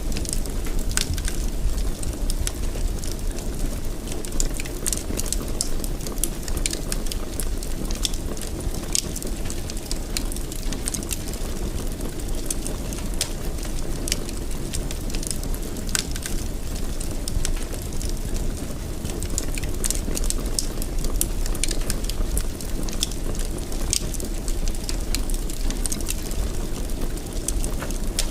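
Fire crackling in a fireplace: a steady low rumble of flames with frequent sharp little pops and crackles scattered at irregular intervals.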